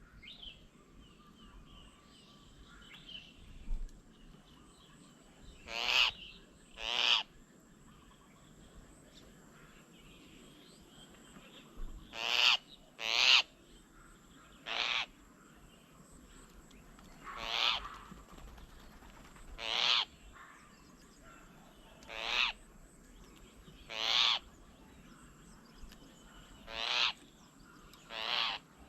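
A bird calling over and over: about a dozen short, loud calls spaced a couple of seconds apart, some coming in close pairs.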